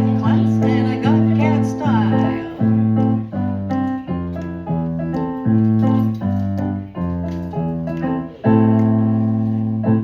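Keyboard playing a run of held chords, changing every second or so, then one long chord held near the end before it stops.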